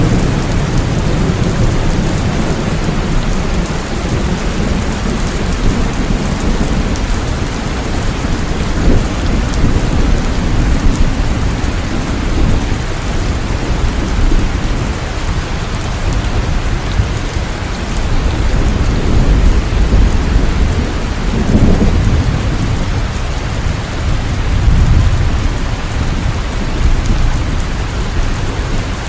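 Steady heavy rain with low rolls of distant thunder that swell and fade several times.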